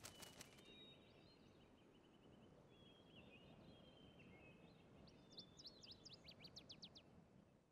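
Faint bird twittering over near silence: scattered high chirps, then a quick run of rapid chirps about five seconds in.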